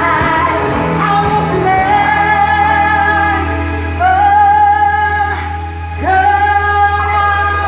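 A song with a singer holding long notes over a steady bass line.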